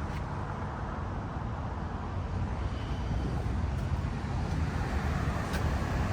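City street traffic: a steady rumble of passing cars, growing slightly louder toward the end.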